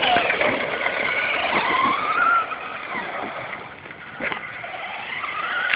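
Traxxas Slash 2WD RC truck's brushless electric motor whining, its pitch rising and falling as the truck speeds up and slows. There is a sharp crack about four seconds in.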